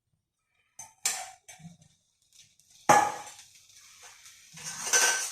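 Kitchen clatter of metal cookware and utensils: a few light knocks, then a loud clang about three seconds in. Near the end a hiss builds, as of food starting to sizzle in hot oil.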